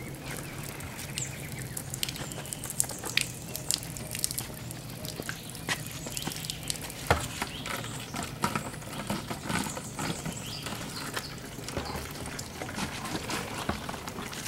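Natural spring water trickling out of rocks and splashing, a steady run of small irregular splashes and drips.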